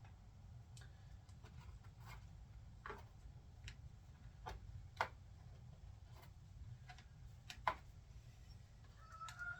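Scattered small clicks and taps from hands working with tools and parts on the subwoofer, two of them sharper about five and almost eight seconds in, over a low steady hum. Near the end a rooster starts crowing in the background.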